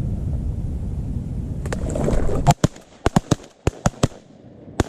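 Several shotguns firing in a rapid volley of about eight shots within two seconds, starting about halfway in, as hunters shoot at incoming ducks. Before the shots there is a steady low rumbling noise on the microphone.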